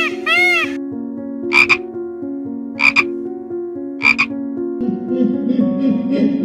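Three short frog croaks, about a second and a quarter apart, over a background music melody. In the first second a repeated high arching call fades out. Near the end a rougher, lower sound starts under the music.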